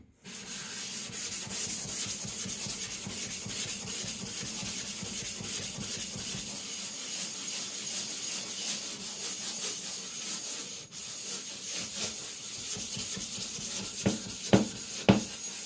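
An Atoma 140-grit diamond plate is rubbed back and forth over a wet Naniwa Professional 400 whetstone to flatten it, making a steady gritty scraping. There is a short break about eleven seconds in and a couple of sharper knocks near the end.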